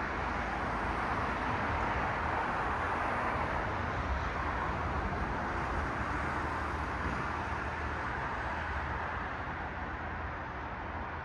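Car traffic passing on a city street: a steady rush of tyre and road noise that swells slightly and then eases away over the last few seconds.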